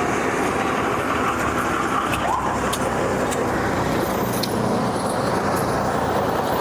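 Steady road traffic noise: vehicles running past, with a few faint clicks and a brief rising tone about two seconds in.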